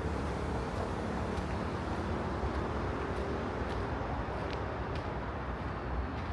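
Outdoor ambience of a city park: a steady low rumble of distant traffic, with a few faint light ticks scattered through it.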